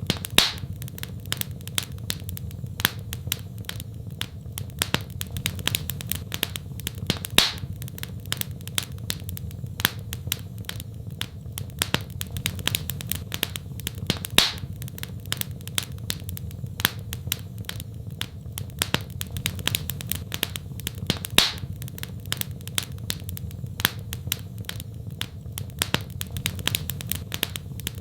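Wood fire crackling in a fireplace: a dense run of small crackles and snaps, with a louder pop about every seven seconds, over a low steady rumble.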